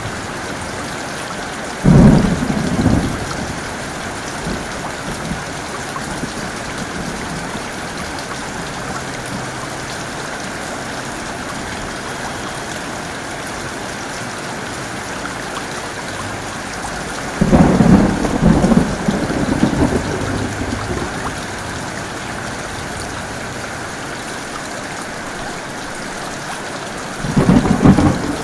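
Steady heavy rain with thunder breaking through three times: a short clap about two seconds in, a longer one with several peaks past the middle, and another starting near the end.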